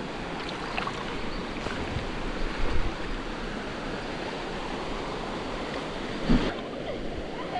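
River water rushing steadily over stones, with a sharp thump about six seconds in.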